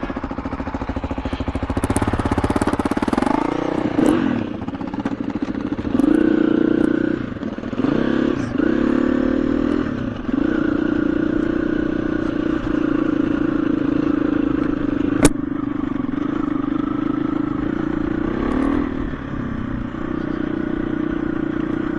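KTM 350 EXC-F single-cylinder four-stroke dirt bike engine under way, revs rising and dropping several times as it pulls off and changes gear, then holding fairly steady. One sharp click about two-thirds of the way through.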